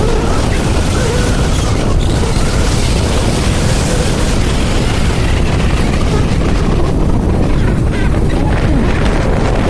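Loud, steady wind noise buffeting the microphone of a moving bike, with road and vehicle noise mixed in.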